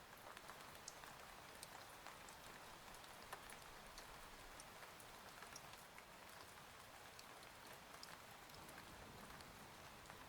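Faint, steady rain with many scattered sharp drops ticking on a surface.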